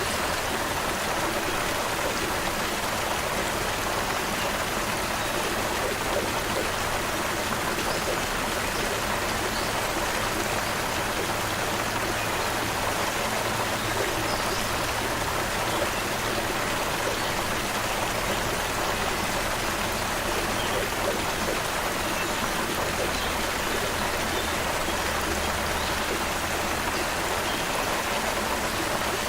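Creek water flowing steadily, an even rushing splash with no change in level.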